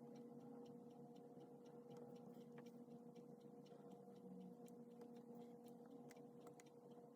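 Faint, light irregular ticks of a pen writing on paper over a steady low electrical hum.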